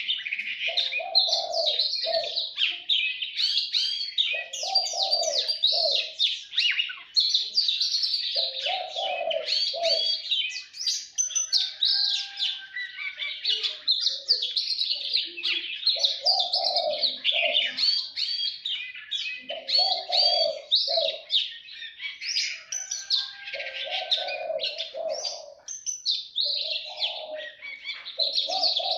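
Birds chirping and twittering in a busy, unbroken chorus, with a lower-pitched call phrase repeating every three to four seconds.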